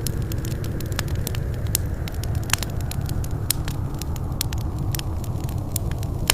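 Wood fire in a fireplace crackling: irregular sharp pops, several a second, over a steady low rumble of the flames.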